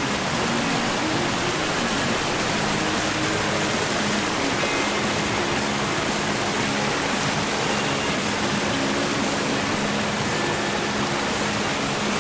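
Glade Creek's rushing water: a loud, steady, even hiss of flowing whitewater.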